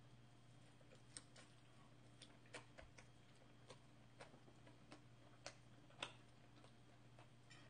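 Near silence with faint, irregular small clicks of a mouthful of clam and green onion pancake being chewed, over a low steady hum.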